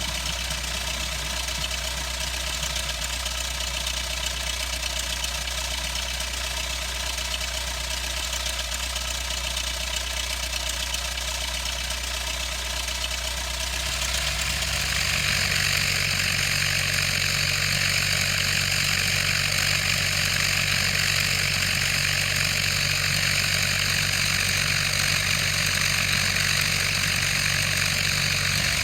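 Cessna 152's four-cylinder Lycoming O-235 engine and propeller running steadily at low power. About halfway through the sound gets louder and brighter, then holds.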